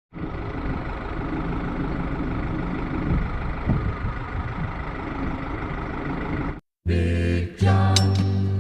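A steady engine running for about six and a half seconds, cut off abruptly. After a brief silence, music starts about seven seconds in.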